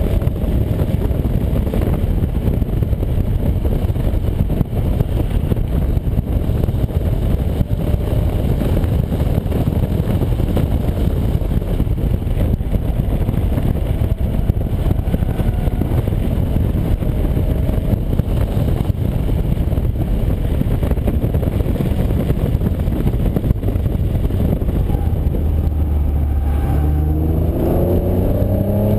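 Acura NSX's mid-mounted V6 with an aftermarket Comptech exhaust running hard at speed on track, heard from inside the cabin with heavy road and tyre noise. Near the end the engine note rises steadily as the car accelerates.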